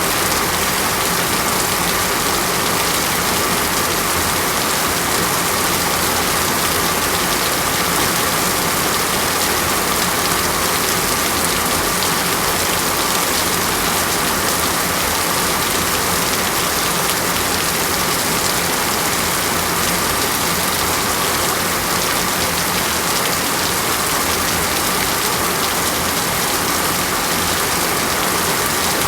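Steady rainfall: an even, unbroken hiss of rain falling on a surface, with a faint low hum underneath.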